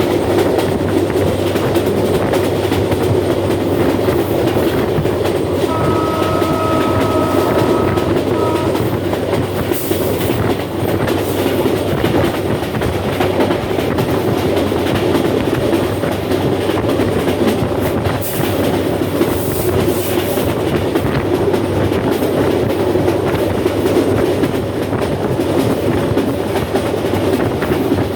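Bangladesh Railway's Rangpur Express passenger train running at high speed, a steady loud noise of wheels on rails. A horn sounds about six seconds in, once held for a couple of seconds and then once briefly.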